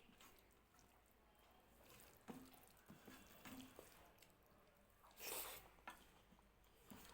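Faint wet chewing and mouth sounds of someone eating rice and dal, with a few soft clicks and a louder squelching noise about five seconds in.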